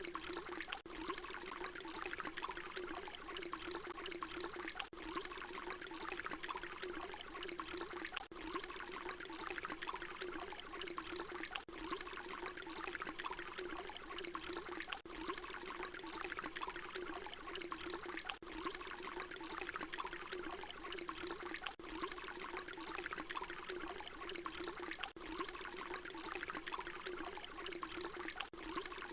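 Water pouring in a steady trickling stream, repeating as a short loop with a brief dip in level about every three and a half seconds.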